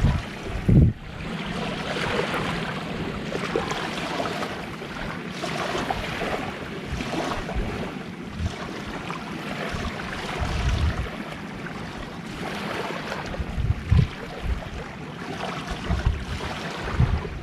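Gentle sea waves washing onto the shore in a steady wash, with gusts of wind buffeting the microphone in low thumps near the start and twice in the last few seconds.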